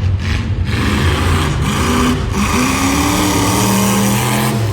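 A demolition derby car's engine running at full throttle, revving high. Its pitch dips about two seconds in, then climbs again as it accelerates.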